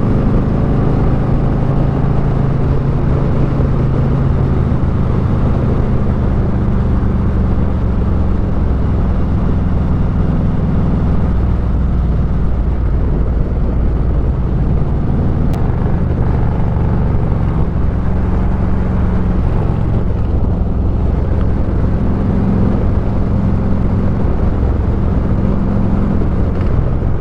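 Motorcycle engine running at steady cruising speed, with wind and road noise; the engine note shifts a little in pitch now and then.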